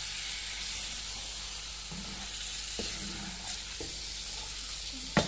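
Lamb liver and green capsicum frying in a pan, sizzling steadily as a wooden spatula stirs them, with a few light knocks and one sharp knock near the end.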